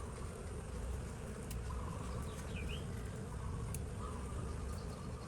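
A mass of honey bees buzzing in a steady hum, with a brief faint chirp about two and a half seconds in.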